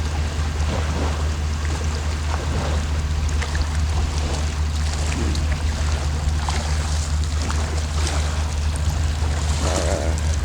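Small waves lapping and sloshing at the water's edge, under a steady low rumble of wind on the microphone.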